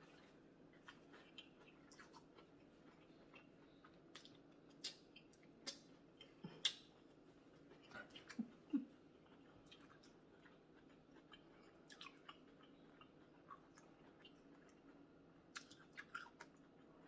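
Faint close-up chewing of food, with scattered sharp wet mouth clicks and bites.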